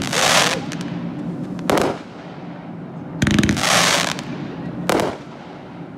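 A 500 g multi-shot fan cake of fireworks firing in the sky: two sharp single bangs, each a second or two after a dense burst about a second long that sounds like crackling. The bursts fall at the start and about three seconds in.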